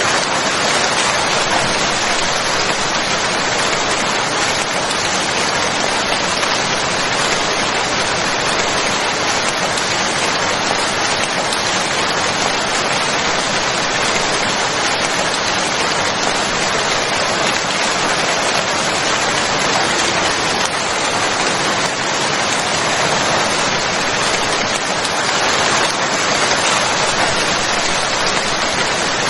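Steady, even rain falling, a continuous hiss with no thunder or single louder drops standing out.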